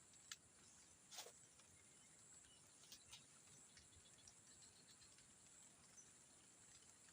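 Near silence: a faint steady high hiss or drone, with a few soft clicks, the clearest about a second in.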